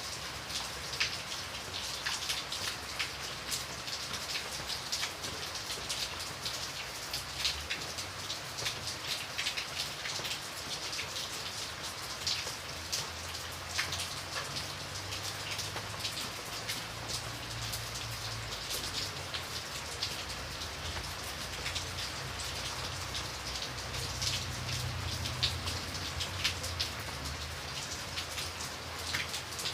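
Steady rain falling on a surface, a constant patter with many sharp individual drop ticks over a soft low rumble.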